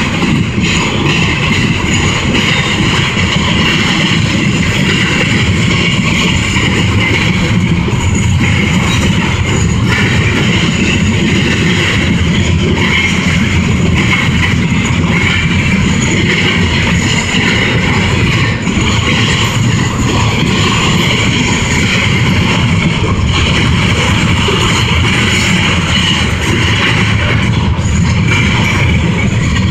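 CSX double-stack intermodal train's container cars rolling past, a loud, steady rumble of steel wheels on rail with no break.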